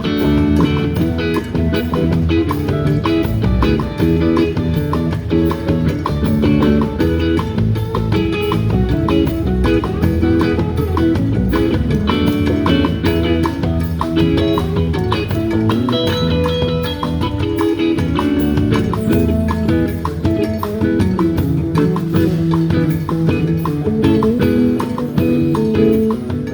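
A live band playing an instrumental passage: guitar lines over bass and drum kit, steady and loud.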